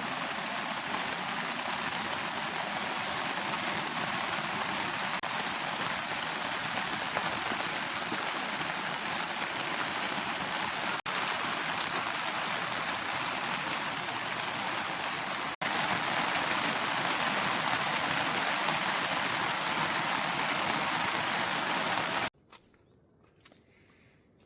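Heavy rain falling steadily, a dense even hiss. It cuts off suddenly near the end, leaving near quiet.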